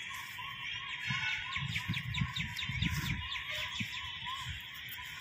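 Birds calling outdoors: one bird repeats a short note about three times a second, and a quick run of high, falling chirps comes in the middle, over a steady high hiss.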